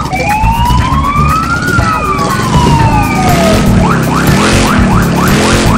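Electronic police siren from a children's ride-on toy police car: one slow wail rising and then falling in pitch, then switching about three and a half seconds in to a fast yelp of quick rising chirps, about three a second.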